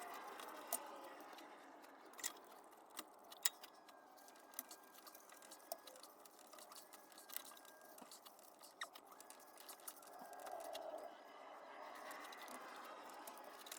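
Faint, scattered light clicks and clinks of hand tools and small metal engine parts being handled, about a dozen at irregular intervals over a low background hiss.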